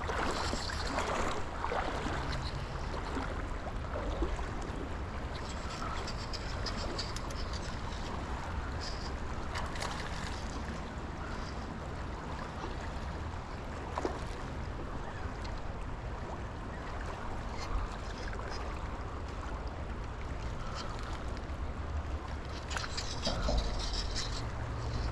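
Steady rush of river current, with low rumble underneath and a few faint clicks.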